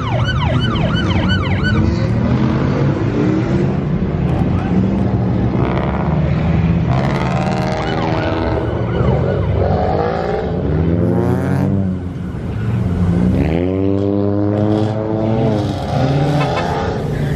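A police siren yelping rapidly for the first couple of seconds, over several car engines. The engines then rev and accelerate away, rising in pitch more than once, as the cars clear out.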